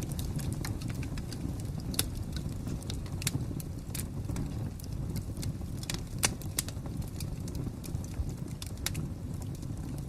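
Fire crackling: irregular sharp pops and snaps over a steady low rumble, with the loudest pop about six seconds in.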